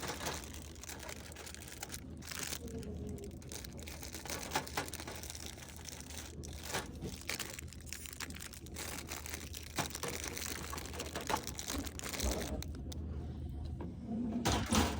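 Plastic packaging crinkling and rustling as it is handled, in an irregular run of crinkles and small knocks.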